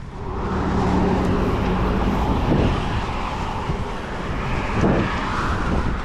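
A car driving past, its engine hum and tyre noise swelling just after the start, over low wind rumble on the microphone.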